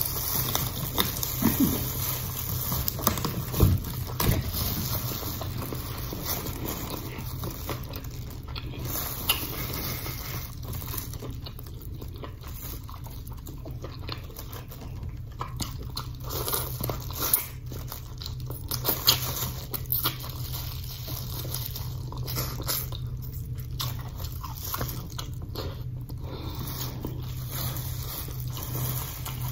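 Close-up chewing and lip-smacking on peeled shrimp and snow crab, with scattered sharp clicks and crackles from the shells and the plastic gloves, over a steady low hum.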